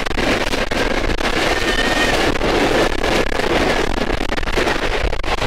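A Pakistan Railways passenger train passing close alongside a moving train, heard at the carriage window: a loud, steady rush of wind with dense, rapid wheel clatter and knocks.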